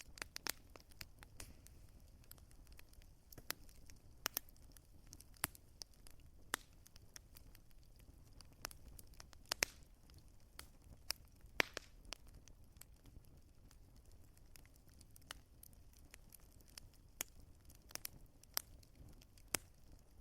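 Wood fire crackling: irregular sharp pops and snaps over a low, steady rumble, with the loudest pop about twelve seconds in.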